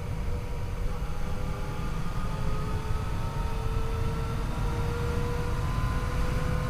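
Yamaha FJ-09's three-cylinder engine pulling under way, its pitch rising slowly as the bike gathers speed, over a heavy low rumble.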